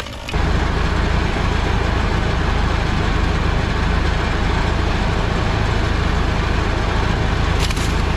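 A large engine running steadily with a deep rumble. It comes in abruptly just after the start.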